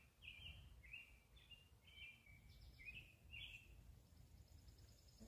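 Near silence with faint birdsong: a series of short chirps, about two a second, that stops a little before four seconds in.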